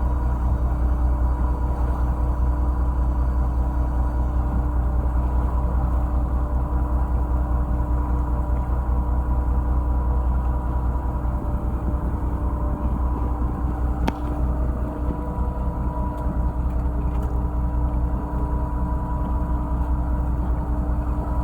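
Fishing boat's engine running steadily: a deep, even rumble with a constant hum.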